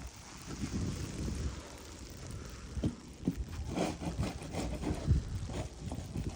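Wind buffeting the microphone in a snowstorm, as a steady low rumble. A few short scraping knocks come about three to five seconds in, while snow is being cleared.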